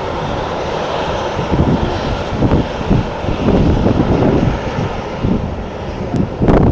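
Jet airliner engines running, mixed with strong wind buffeting the microphone in uneven gusts, with one sharper, louder gust near the end.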